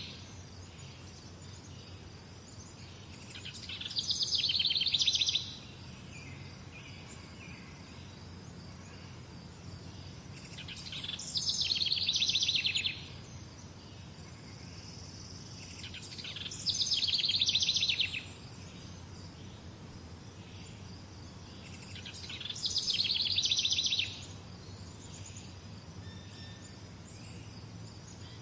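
A songbird singing the same rapid, trilled phrase four times, each lasting about a second and a half to two seconds, with pauses of about four seconds between them, over a steady low background hum.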